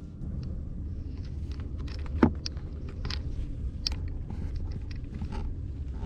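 Steady low rumble with scattered light clicks and one sharper knock about two seconds in.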